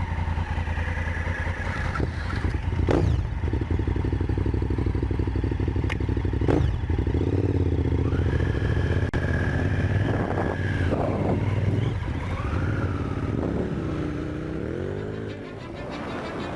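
Touring-enduro motorcycle engine running as the bike rides off-road, with two sharp knocks along the way.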